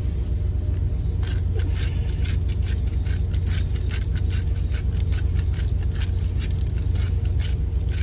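Steady low hum of an idling truck engine. From about a second in, a quick run of small clicks and scrapes, several a second, from food being handled by hand.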